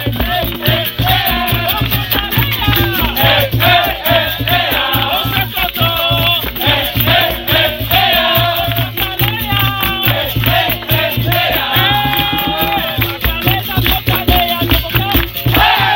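Live capoeira roda music: hand percussion and a shaker rattle, which in a roda is the caxixi on the berimbau, keeping a fast, steady beat under voices singing.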